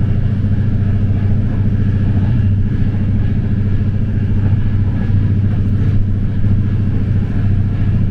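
A vehicle's engine running with a steady, loud, low rumble.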